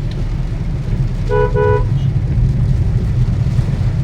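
Two short toots of a vehicle horn about a second and a half in, over a steady low rumble of heavy rain.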